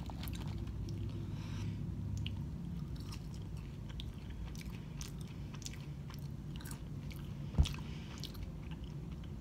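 Close-up eating sounds: a person biting and chewing French fries, with small wet mouth clicks. A single sharp thump about seven and a half seconds in.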